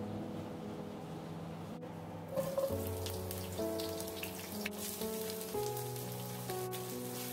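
Onions and oil sizzling in a hot wok: a steady hiss that turns into denser crackling about two and a half seconds in, when the sliced onions go into the oil. Soft piano music plays throughout.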